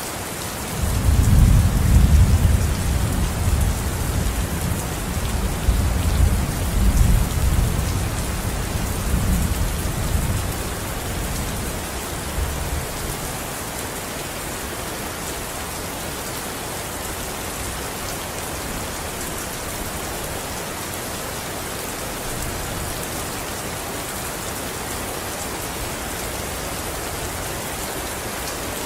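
Steady heavy rain, with a long rolling rumble of thunder starting about a second in and dying away after about ten seconds; rain alone after that.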